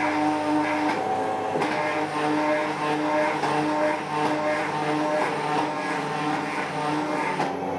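Home-built gearbox CNC machine's motors and gearbox running through axis moves: a steady pitched whine that shifts in pitch about a second in, again shortly after, and once more near the end as the move speed changes.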